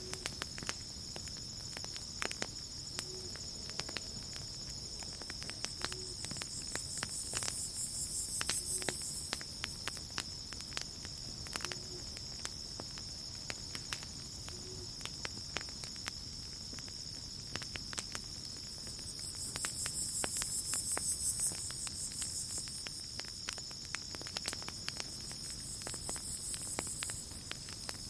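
Campfire crackling with scattered sharp pops over a steady high-pitched cricket trill. A higher insect buzz swells up and fades twice, about eight and twenty seconds in.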